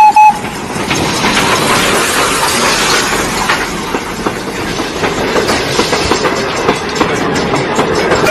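Steam locomotive pulling passenger coaches past at slow speed: a steady rumble and hiss with clickety-clack of wheels over the rail joints. A held whistle tone cuts off right at the start.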